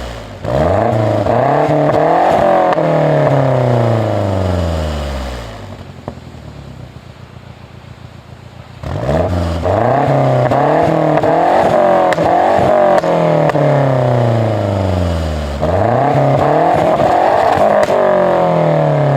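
2006 Mazda 6 MPS's turbocharged 2.3-litre four-cylinder engine being revved again and again, its pitch climbing and then falling back, in three long bouts. It drops to a quieter idle from about six to nine seconds in.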